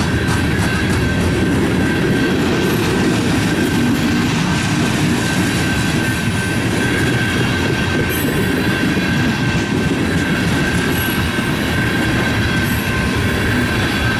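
Loaded coal gondolas of a unit freight train rolling past, a continuous heavy rumble of wheels on rail with a steady high ringing tone and brief sharp wheel squeals a couple of times.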